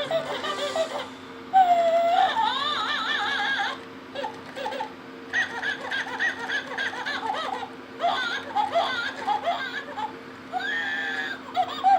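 Several bouts of high-pitched giggling laughter, with a steady low hum underneath.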